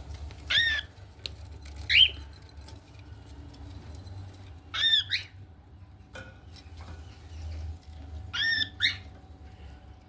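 Cockatiels giving short, rising-and-falling squawking calls, singly and in quick pairs, four times.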